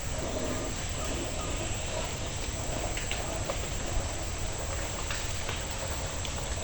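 Steady outdoor background hiss with a few faint scattered ticks.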